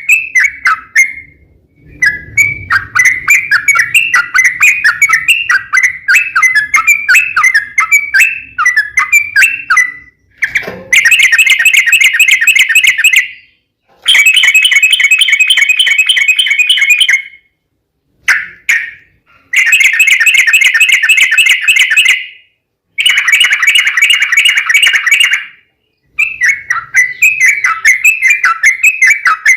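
Yellow-vented bulbul (trucuk) singing a long, rapid chattering song: runs of quick notes, some stretches becoming very fast continuous trills, broken by short pauses. This is the long-roll (ropel panjang) song used as a lure to set other trucuk birds singing.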